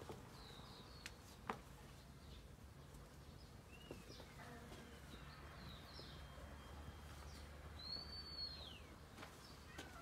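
Faint birdsong: scattered short chirps and whistled calls, including a falling call near the middle and an arching one near the end, with a few soft clicks, over a low steady background hum.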